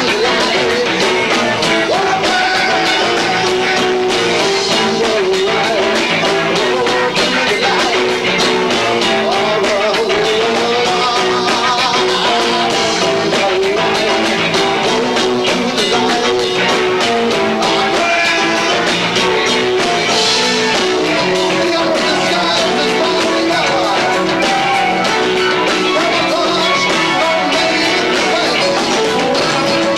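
Rock band playing live at full volume, with guitar, bass and two drum kits, all dense and continuous. The sound is lo-fi, taken through a camcorder's built-in microphone.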